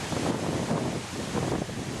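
Small waterfall, water splashing and rushing steadily, with wind buffeting the microphone in uneven low gusts.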